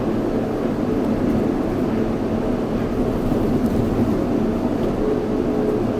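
Yurikamome 7300-series train running along its concrete guideway on rubber tyres, heard from on board: a steady running rumble, with a steady tone coming in about five seconds in.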